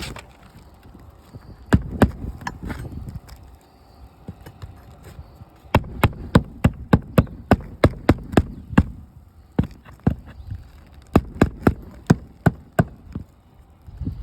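Repeated sharp knocks, two at first and then two quick runs of about three or four a second, with short pauses between the runs.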